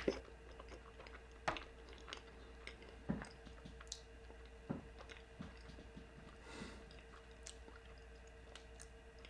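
Close-miked mouth sounds of someone chewing a bean and cheese burrito dipped in birria consomé: scattered short clicks and smacks, about one every half second to a second.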